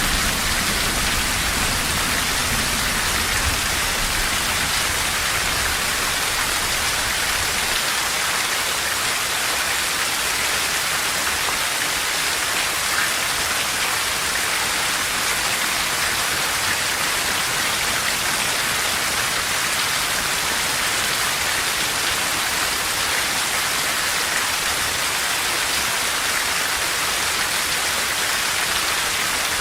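Steady rain falling on forest trees, an even hiss without let-up. A low rumble underneath fades out about seven seconds in.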